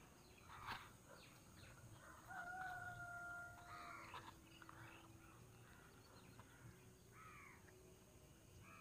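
Near silence with faint distant bird calls: one long held call about two and a half seconds in, and short falling calls later.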